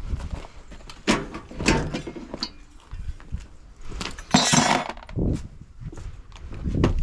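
Metal and plastic parts of a washing machine knocking and clinking as it is taken apart, with a louder scraping rattle about four seconds in.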